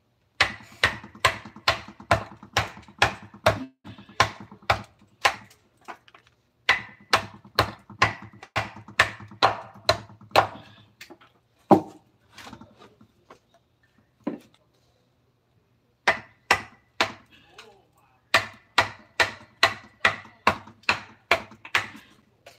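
Mallet striking a carving chisel into wood in runs of sharp, even blows, about two to three a second, with short pauses between the runs and a single harder blow near the middle.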